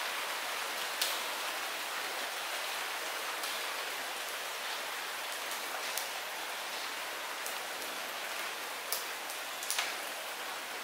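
Light rain falling steadily, an even hiss of drops, with a few sharper single drop taps standing out now and then.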